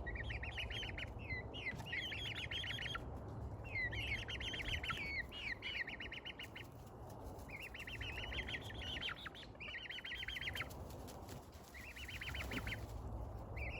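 A bird calling in a series of rapid high trills, each about a second long, some led by short gliding notes, over a steady low hum.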